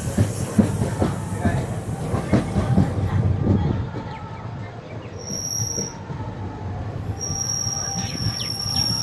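Passenger train running on the rails, its wheels knocking over the track for the first few seconds, then a high, steady wheel squeal about five seconds in and again for the last two seconds.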